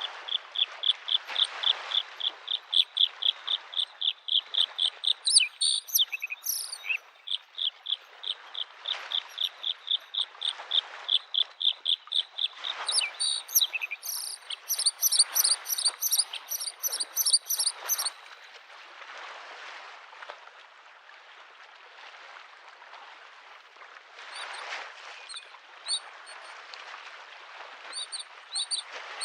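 Bluethroat singing: long runs of rapid, repeated chirping notes, about five a second, then a higher, faster stretch of notes for a few seconds midway; the song pauses for several seconds and starts again near the end. Small lake waves wash on the shore behind it.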